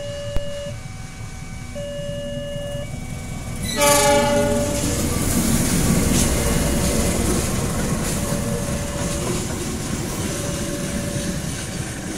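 A level-crossing alarm sounds in two alternating tones. About four seconds in, a KAI diesel locomotive blows a loud horn blast as it reaches the crossing. The passing train's engine and wheels then rumble on steadily, with the alarm still sounding under them.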